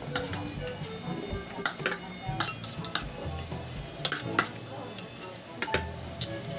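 Cutlery clinking and scraping against a plate in repeated sharp clicks while eating, over background music.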